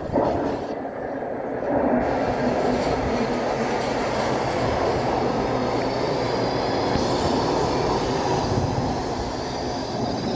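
Baltimore Metro Budd-built subway train moving along the station platform: a loud, steady rumble and rush of wheels and motors. A faint high wheel squeal joins in the second half.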